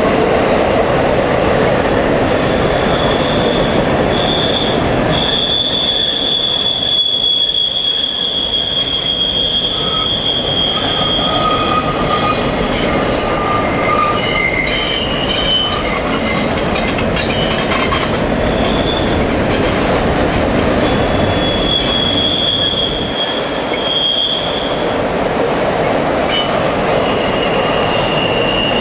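CN intermodal freight train rolling past, a steady rumble of passing cars with high-pitched wheel squeals that start and stop at several pitches, the strongest from about 5 to 12 seconds in.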